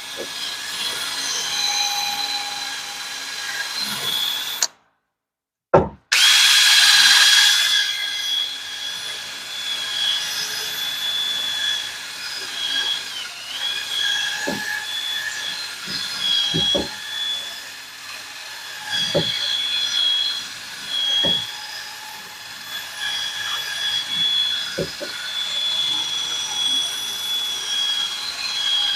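Handheld power tool running at high speed with a steady high whine, cleaning rust and corrosion out of a steering knuckle's hub bore; the pitch dips briefly now and then as the tool is loaded. The sound cuts out for about a second a few seconds in, and a few sharp clicks come through later on.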